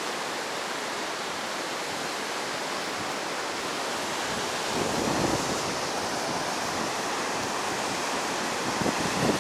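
Heavy surf on a sandy beach, the waves running high after a typhoon: a steady rush of breaking water that swells a little about five seconds in and again near the end.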